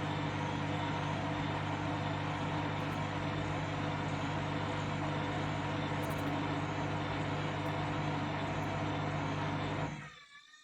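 Candy front-loading washing machine spinning a heavy, wet towelling load during its intermediate spin: a loud, steady whirr with a strong low hum. About ten seconds in the spin cuts out and the noise falls away quickly.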